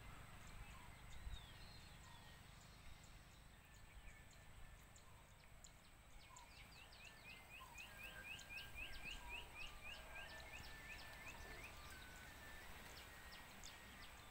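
Faint outdoor ambience with bird chirps over a low rumble. In the middle comes a run of about a dozen quick, repeated chirps, about three a second.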